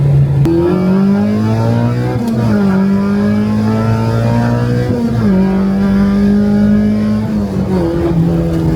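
K24-swapped Honda Civic's four-cylinder engine pulling hard at high revs. Its pitch climbs steadily through each gear and drops in a short step at each upshift, three times.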